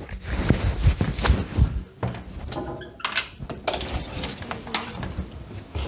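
A door being opened: knocks and thumps, then a short squeak and sharp latch-like clicks about halfway through.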